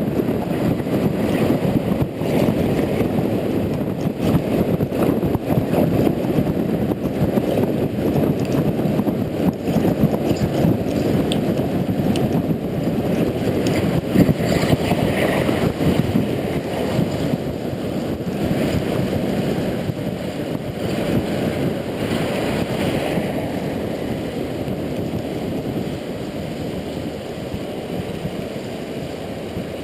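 Wind buffeting the action camera's microphone on a moving Honda Integra NC750D motorcycle, a low, fluttering rush with road and engine noise buried beneath it. It eases a little in the last several seconds.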